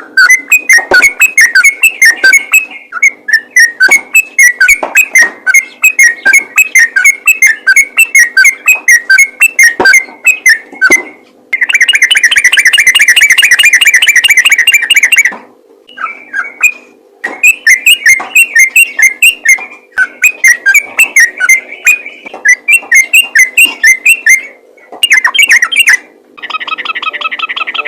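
Sooty-headed bulbul (trucukan) singing its fast chattering 'ropel' song: rapid strings of whistled notes with short breaks, and a dense unbroken trill of about four seconds in the middle. Near the end a different, buzzier sound with many tones takes over.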